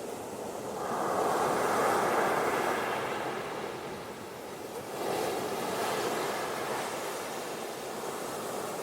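Ocean waves washing onto a beach: one wave swells in about a second in and eases off, and a second comes in about five seconds in, over a steady hiss of surf.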